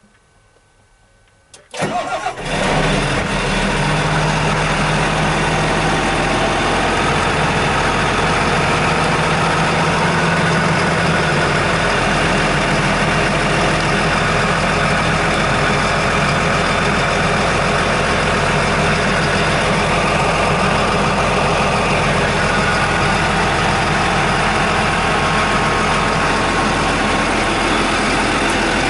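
The Case IH Steiger 335's 8.9-litre turbocharged six-cylinder diesel cranks and starts about two seconds in, then runs at a steady idle.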